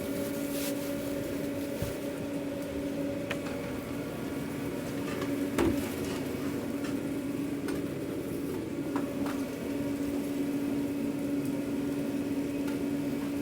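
Steady machine hum of food-truck kitchen equipment, with a few light clicks and knocks from takeout packing and one louder thump about five and a half seconds in.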